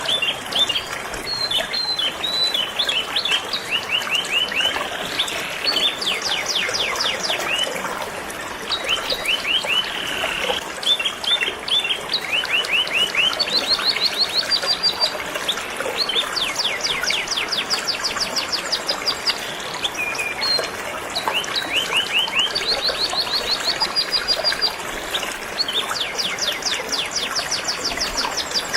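Canary song: long, rapid trills of fast repeated high notes, one phrase after another, over the steady rush of flowing river water.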